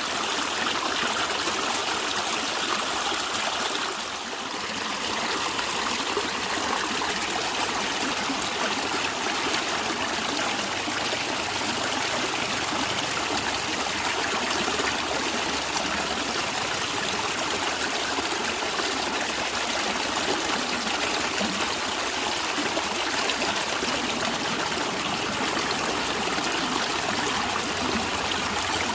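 Stream water flowing and gurgling over rocks, a steady rushing babble that dips briefly about four seconds in.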